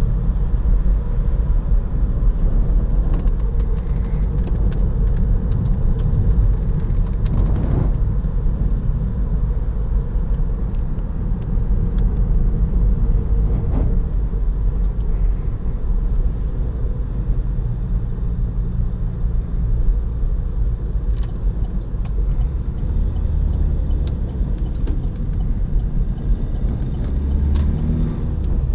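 Opel Astra 1.6 BiTurbo CDTI four-cylinder turbodiesel driving, heard from inside the cabin as a steady low rumble of engine and road noise, with the engine note rising near the end.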